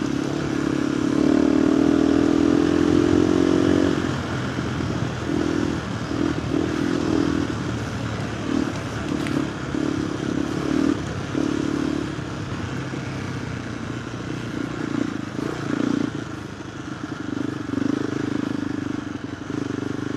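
KTM 390 Adventure R's single-cylinder engine through a Norifumi Whoops slip-on exhaust, rising in pitch under throttle about a second in. It then runs in a series of short on-off throttle bursts, followed by an uneven, varying note.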